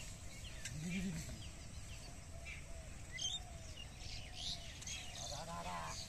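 Birds chirping and calling on and off over a steady low outdoor background, with a brief low call about a second in.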